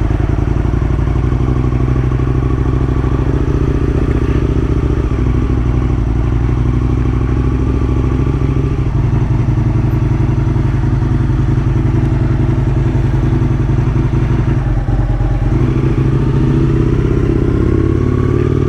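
Aprilia RSV1000's V-twin engine running steadily under way, with its pitch rising slightly near the end.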